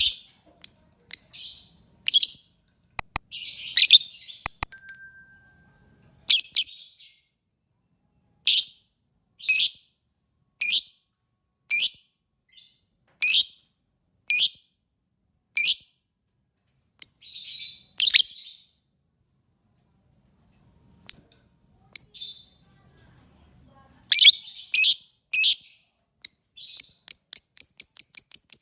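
Bird lure-call recording ('pancingan') of the bird known to trappers as 'lobberd': sharp, high, short calls about once a second, mixed with a few raspy notes and a thin high whistle, speeding up into a fast run of repeated notes near the end.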